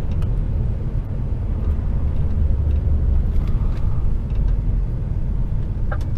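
HGV container lorry heard from inside the cab: the diesel engine running and the road noise make a steady low rumble.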